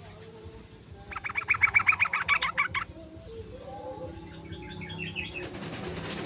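Yellow-vented bulbul calling: a rapid run of chattering notes, about eight a second, starting about a second in and lasting nearly two seconds. Softer chatter follows, and a hiss rises near the end.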